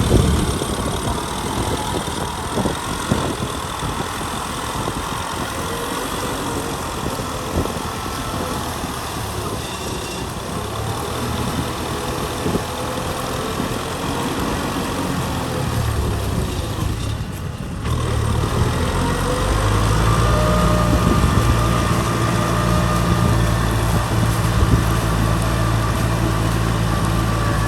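Kubota M6040 SU tractor's diesel engine running steadily. About 18 seconds in, the sound becomes louder and fuller in the low end.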